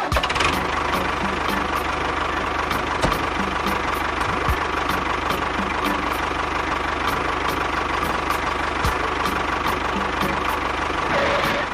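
Small engine running steadily with a rapid, even firing beat.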